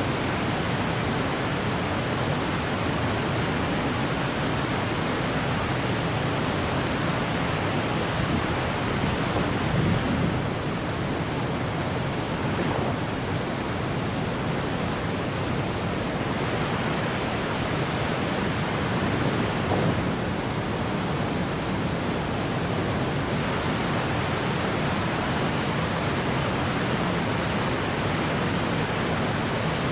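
Waterfall pouring, a steady, dense rushing noise that fills the whole range; the hiss in the highest register dulls twice for a few seconds, about a third and two-thirds of the way in.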